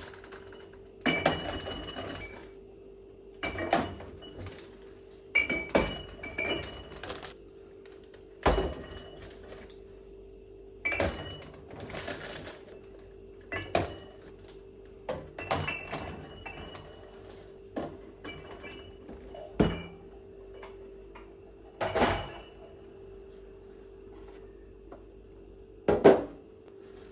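Dishes, glass jars and containers being handled and set down one after another: irregular clinks and knocks every second or two, over a faint steady hum.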